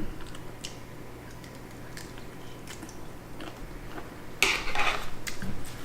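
Quiet eating sounds of a stir-fried rice noodle meal: small clicks of a utensil and chewing, with a louder noisy half-second sound about four and a half seconds in.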